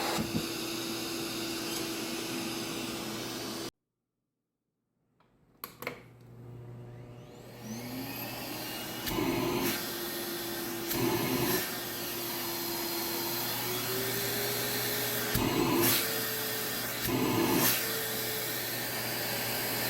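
Suction pet-grooming vacuum (iDogCare) running steadily. After a short dead silence and a couple of clicks, its motor spins up again with a rising whine and settles into a steady hum. Near the middle and again later the sound briefly gets louder four times, as the suction head works the rug.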